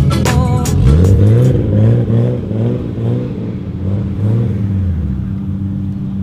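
A car engine revved in several short blips, each rising and falling in pitch, then settling to a steady idle. Music plays over the first second and a half.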